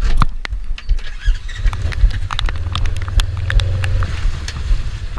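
Irregular knocks and thumps throughout, with a steady low engine hum that comes in about a second and a half in and fades out a couple of seconds later.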